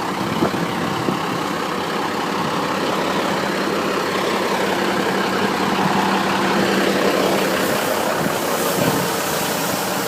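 An engine idling steadily, with an even hum.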